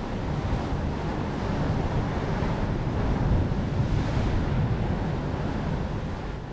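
Strong wind buffeting the microphone in a heavy, fluctuating low rumble, over the wash of sea waves breaking on the shore.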